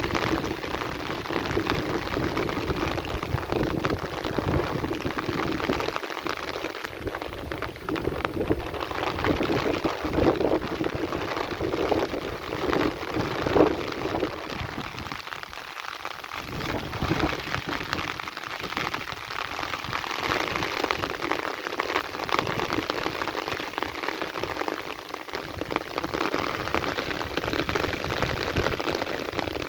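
Heavy rain pouring steadily in a dense hiss, with low rumbles of thunder swelling and fading underneath.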